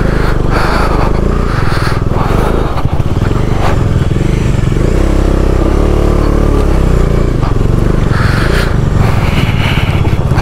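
Motorcycle engine labouring in a low gear up a steep, rocky track at high altitude, with repeated knocks and rattles as the bike jolts over stones. The rider says the air filter is giving trouble.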